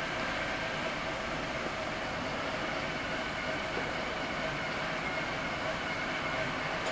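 Scania CR112 city bus's diesel engine running steadily as the bus moves, with a few constant whining tones over the engine noise.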